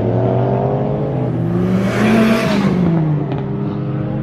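A car accelerating hard past, its engine note climbing to a loud peak about two seconds in and then falling away, over the steady drone of other car engines.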